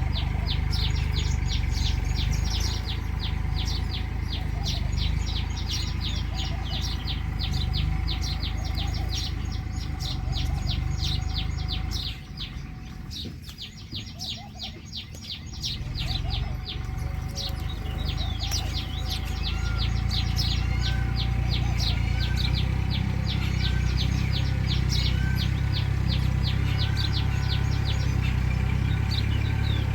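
Small birds chirping rapidly and continuously in high, short notes, thinning out for a few seconds midway. A steady low rumble runs underneath.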